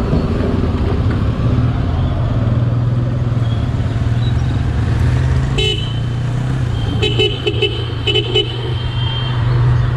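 Hero Hunk's single-cylinder motorcycle engine running steadily under way, with road and wind noise. A vehicle horn sounds briefly a little past halfway, then honks in a run of short blasts from about seven to eight and a half seconds.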